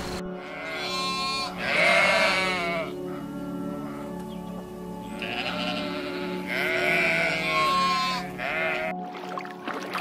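An animal bleating: a run of quavering calls in two groups, over steady background music.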